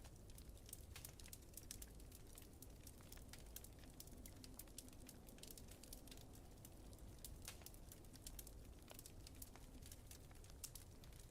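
Quiet wood fire crackling, with frequent irregular pops and snaps over a low, steady rumble.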